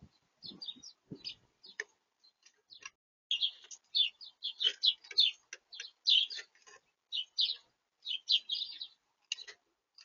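Small songbirds at a feeder chirping in quick, short calls, dense through the middle of the clip, with a few soft knocks in the first second.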